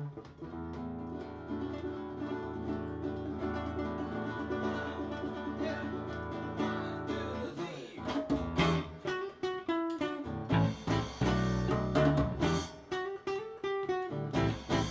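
Live acoustic band music: held chords over a low bass, then picked guitar notes in a rhythm with the bass from about eight seconds in.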